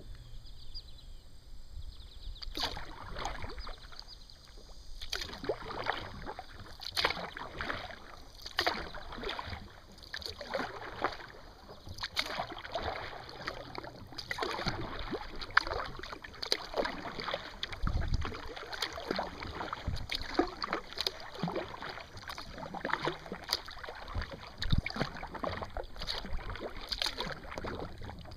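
Kayak paddle strokes: the blades dipping and splashing in the water in a steady rhythm of about one stroke a second, with water running off the paddle between strokes.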